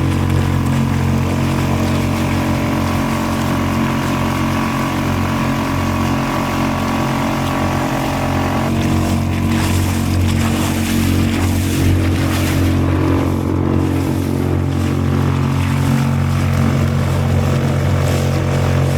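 Small Suzuki outboard motor running steadily at speed, pushing the kayak along, with water and wind rush underneath. About halfway through, some of the engine's higher tones fall away.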